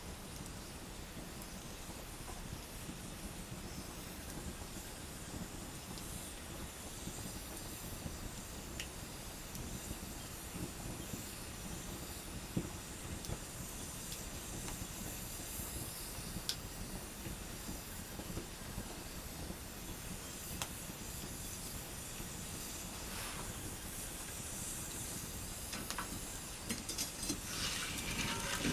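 Wood campfire burning: a steady hiss with sparse sharp crackles and pops, the crackling thickening into a quick cluster near the end.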